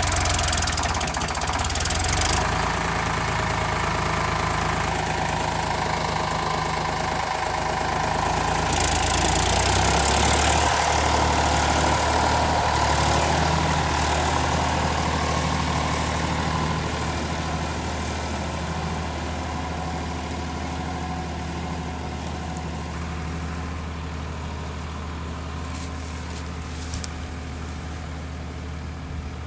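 Indofarm tractor's diesel engine running steadily while hauling a loaded sugarcane trolley of about six tonnes. It grows gradually fainter over the second half.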